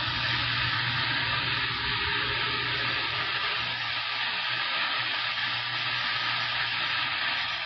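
CB radio static: a steady hiss of band noise through the receiver's speaker, with a low hum underneath.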